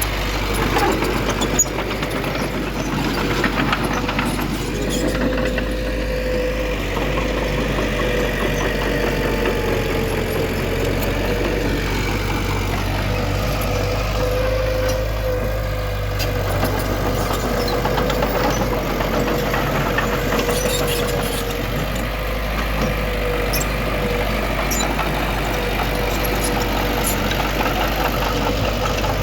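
Diesel engine of heavy earthmoving machinery running steadily under load, with a sustained whine over it and a few sharp clicks and clanks.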